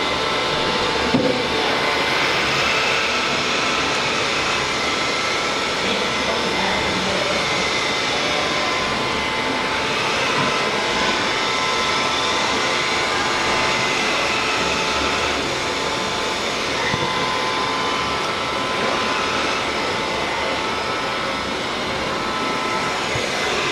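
Vacuum cleaner running steadily: an even rush of air with a few faint high tones from the motor.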